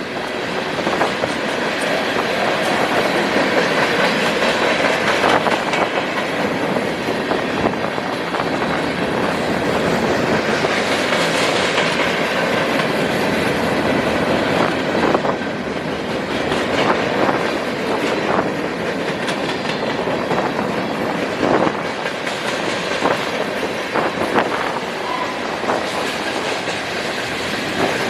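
Manifest freight train rolling past, its steel wheels clicking over the rail joints amid a steady rolling noise.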